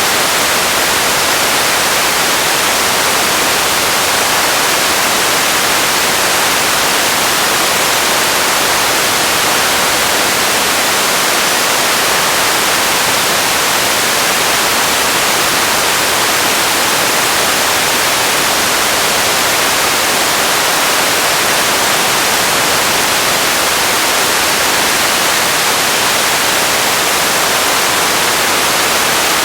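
Radio static: a loud, steady hiss, even and unbroken, weighted toward the high end.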